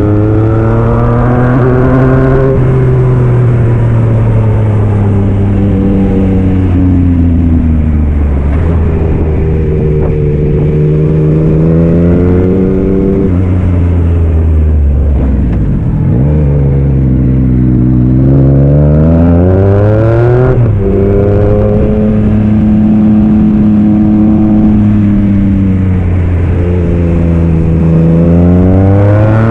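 Yamaha MT-09 SP's 890 cc three-cylinder engine through an aftermarket Black Widow exhaust, pulling through the gears: the revs climb several times, each climb ending in a sudden drop at the shift. About halfway through the revs fall off further as the bike slows, then build again.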